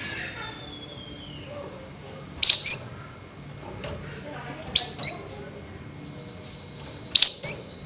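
Flamboyan songbird giving three loud, sharp double calls a little over two seconds apart, each a harsh chirp sweeping downward: the excited 'nyerecet' calling of a bird in high spirits. A faint falling whistle comes near the start.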